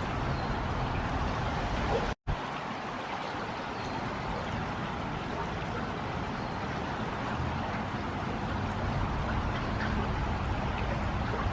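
Steady rushing outdoor noise, broken by a brief sudden cut about two seconds in.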